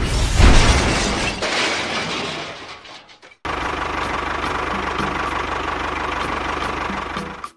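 A rush of noise that fades over about three seconds. After a sudden cut, a small motor runs steadily with a faint whine and light regular ticking.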